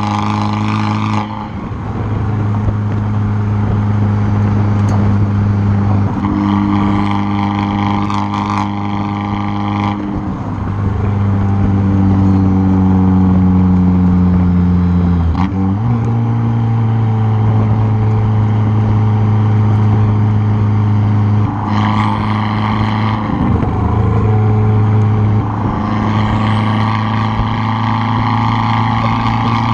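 Turbocharged four-cylinder of a modified 2013 Fiat 500 Abarth, its straight-piped exhaust heard close up from the rear bumper, running at fairly steady revs. The exhaust note turns harsher each time the throttle opens and eases when it is lifted, several times. There is a brief dip and step in pitch about halfway through.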